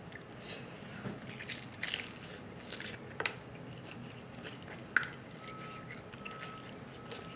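Close-up eating of a toasted hard-shell taco: biting, crunching and wet chewing, with several sharp crunches, the loudest about five seconds in.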